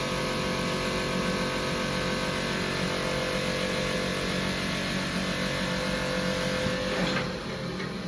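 Siemens WA4600 washing machine spinning, its motor running with a steady whine. About seven seconds in the motor cuts out and the sound drops to a quieter rumble as the drum runs down.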